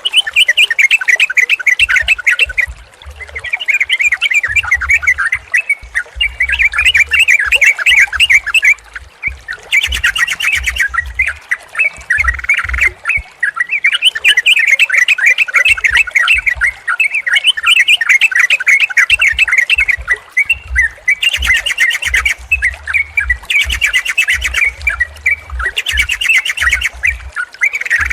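Yellow-vented bulbuls (trucukan) singing, bubbly chattering phrases that follow one another with short pauses between them. Several birds' songs overlap at times. A few brief, higher, hissy chirps come in around the middle and near the end.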